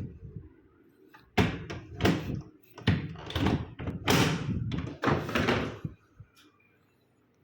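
A run of loud knocks and thuds, with sudden starts, over about four and a half seconds, then it goes quiet.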